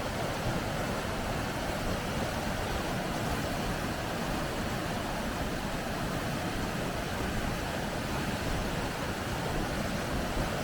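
Rushing water of river rapids: a steady, unbroken roar.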